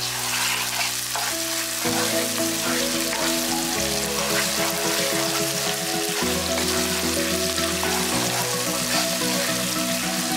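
Sliced onions and ginger garlic paste frying in hot ghee and oil, a steady sizzle.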